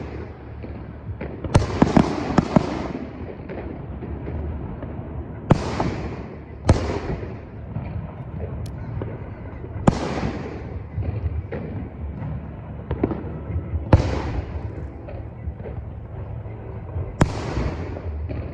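Fireworks shells bursting overhead: about six sharp booms a few seconds apart, each trailing off in an echo, with a burst of crackling about two seconds in, over a steady low rumble.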